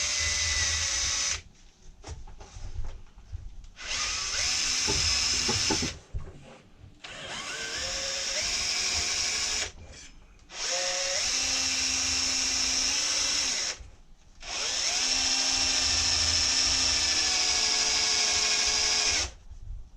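Electric drill boring into metal in five runs of a few seconds each, with short pauses between them. The motor's pitch rises as each run starts.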